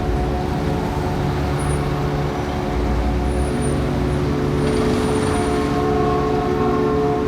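Steady city traffic noise with a sustained hum of several held tones underneath, a few higher tones joining about five seconds in.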